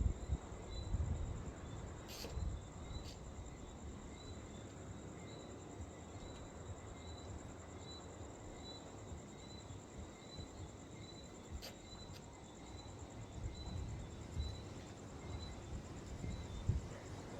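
Insects trilling: a continuous high, finely pulsing buzz with a softer chirp repeating at an even pace beneath it. An uneven low rumble runs under it, and a few sharp clicks come through.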